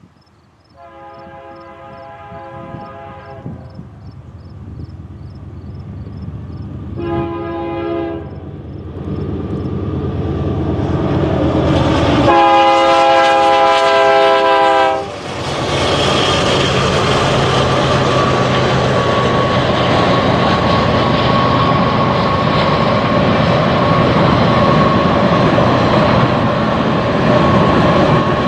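Locomotive air horn sounding three chords as the train nears: a long blast, a short one, then a long one. The train then passes close by, a loud steady rumble of wheels on rail.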